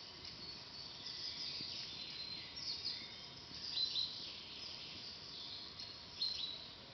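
Small songbirds chirping in short, quick calls, the loudest about four seconds in and again near the end, over a steady faint background hiss.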